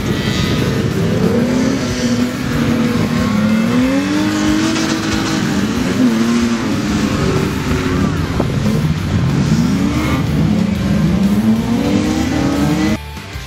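Several stock-car engines racing on a dirt track, revving hard, their pitch rising and falling as the drivers accelerate and lift off. About half a second before the end the engine sound cuts off suddenly to quieter music.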